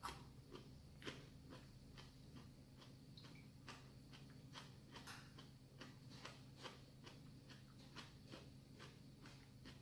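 Faint eating sounds: small irregular clicks of chewing, two or three a second, over a low steady hum.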